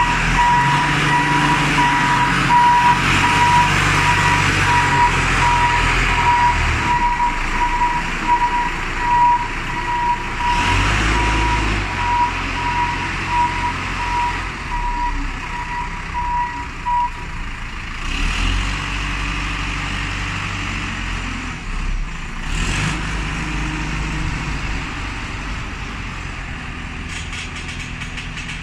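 Heavy diesel machinery running while a reversing alarm beeps in a steady, repeated rhythm for about the first seventeen seconds. The engine revs up and settles back a few times, then keeps running.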